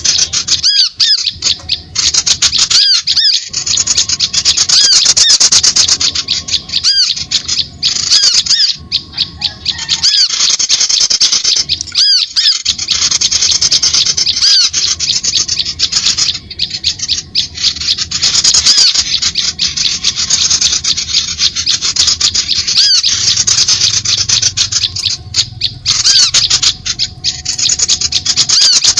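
Small songbirds' rapid, high-pitched chirping and twittering, dense and almost unbroken with only brief gaps: a bird-lure (pikat) call recording.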